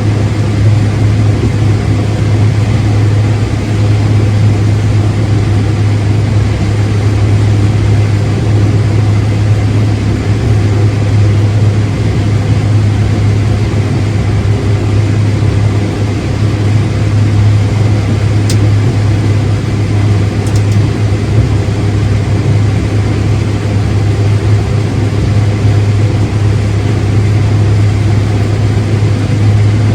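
Heavy farm machinery engine running steadily under load, a loud continuous drone with a strong low hum. Two faint clicks come about two-thirds of the way in.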